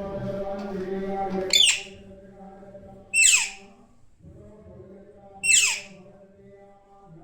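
Pet parrot giving three loud, harsh screeches, each falling in pitch, spaced about two seconds apart.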